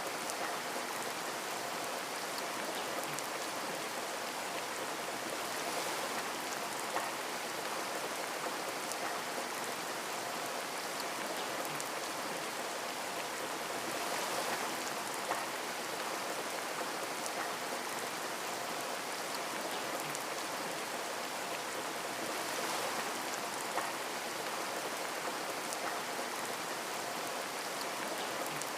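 Steady rain falling on a window, an even hiss with a few louder single drops ticking now and then.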